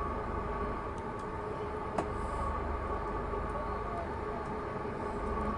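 Steady hum and low rumble of a passenger train standing still at a station, heard from inside the carriage, with one sharp click about two seconds in.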